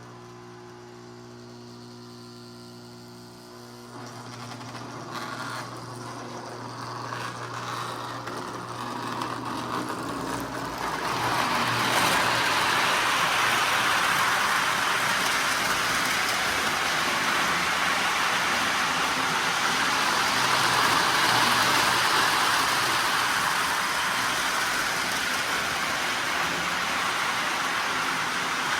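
Lionel RS-3 O-gauge model diesel locomotive: a steady electrical buzz at first, then from about four seconds in the motor runs up, growing louder until about eleven seconds in and then running steadily, with the buzz still underneath. The owner takes the buzzing as a sign that the locomotive needs servicing.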